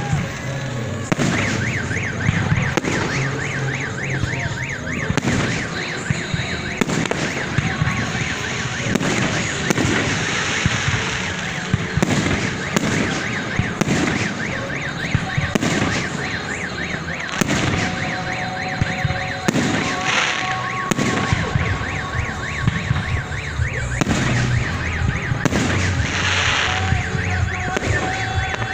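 Aerial fireworks going off in a dense, irregular run of bangs and crackle. An electronic alarm warbles rapidly through roughly the first ten seconds.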